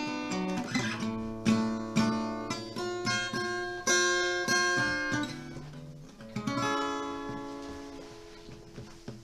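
Acoustic guitar playing the song's closing bars: picked and strummed chords, ending on a last chord about six and a half seconds in that rings out and fades.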